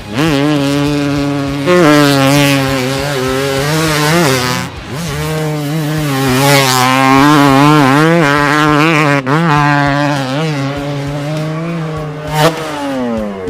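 A person imitating a dirt bike engine with their voice, a steady buzzing drone that wavers in pitch and breaks off briefly a few times as if for breath.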